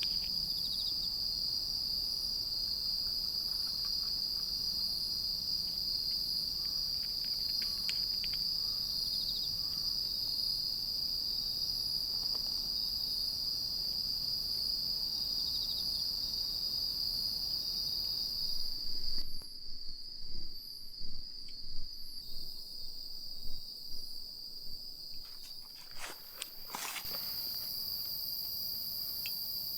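Chorus of crickets trilling steadily at a high, shrill pitch. For several seconds past the middle the background hiss drops away and the sound comes in short, uneven louder pulses.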